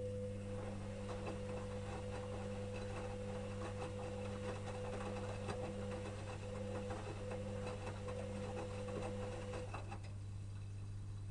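Electrolux EWS 1045 front-loading washing machine turning its drum during the wash: a steady motor whine over the tumbling laundry's small knocks and rustles. The drum stops about ten seconds in, leaving a low steady hum.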